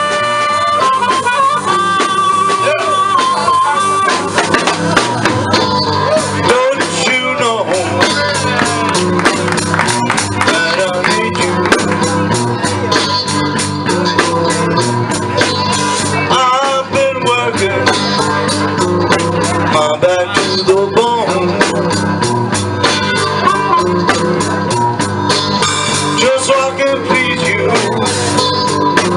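Blues trio playing live, an instrumental passage: a long held, bending lead melody over a steady rhythm.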